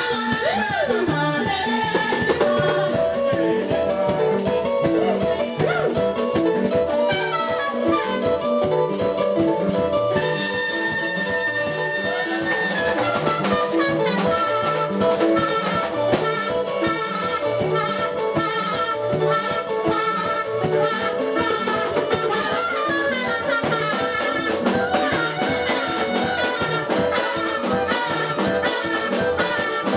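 Upbeat band music with a drum kit keeping a steady beat and brass-like lead lines over it.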